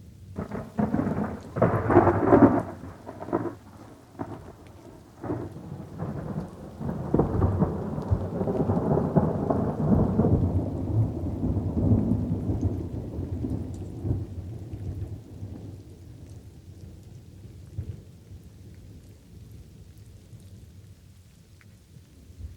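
Thunder over light rain: a crackling clap starts about half a second in and peaks around two seconds, then a long rolling rumble swells and fades away over the second half. Light rain keeps on underneath.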